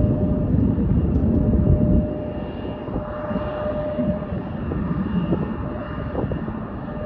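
Jet airplane engines running: a heavy low rumble that drops off suddenly about two seconds in, leaving a quieter rumble under a steady engine whine.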